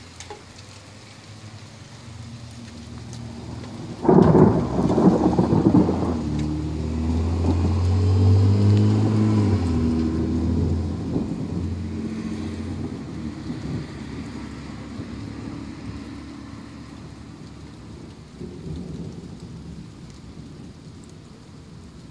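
A thunderclap: a sudden sharp crack about four seconds in, followed by a long, deep rolling rumble that slowly fades, with rain falling throughout.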